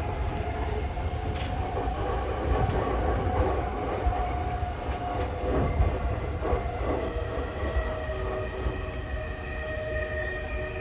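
Tokyu 3020 series electric train running at a steady speed: a constant low rumble of wheels on rail with a steady electric whine from the drive, and a few faint rail clicks.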